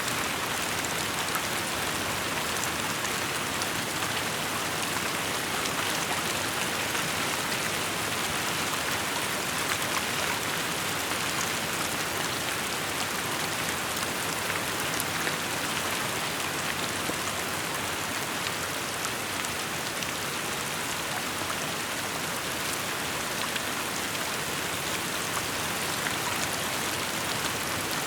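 Steady rainfall, an even hiss of rain with many small drop ticks on hard surfaces.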